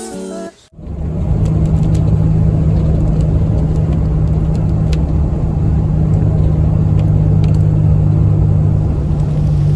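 BMW E46's engine running at a steady speed, a loud, even low hum that holds its pitch; music cuts off about half a second in.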